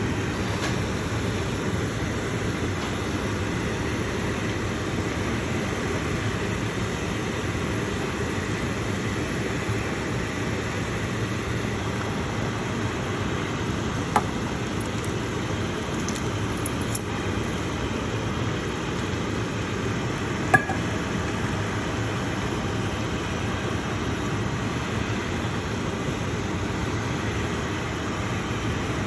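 Steady rushing kitchen noise, with a few sharp clinks of a utensil or glass about halfway through.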